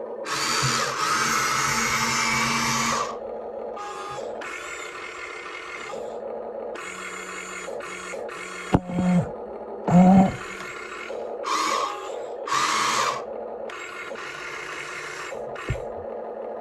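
Small electric motors of a toy remote-control excavator whirring in a string of starts and stops as its functions are worked, the first run the longest and loudest, with a couple of short knocks about halfway through.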